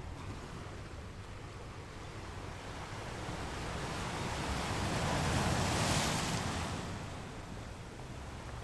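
Atlantic Ocean surf on a beach: a wave swells and washes in, loudest about six seconds in, then fades, over a steady low rumble of wind on the microphone.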